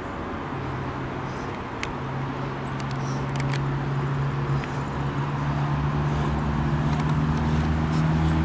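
MARC commuter train approaching: the steady drone of its diesel locomotive grows gradually louder, with a few faint clicks.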